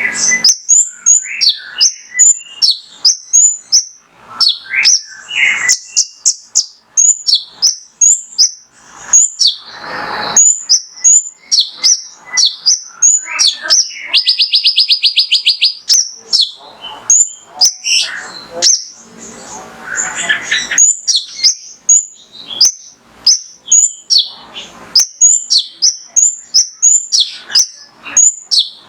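Male kolibri ninja (konin), a sunbird, singing a fast, sharp, high-pitched chirping song. About halfway through it gives a rapid buzzy trill, and it breaks off a few times into harsher rasping calls.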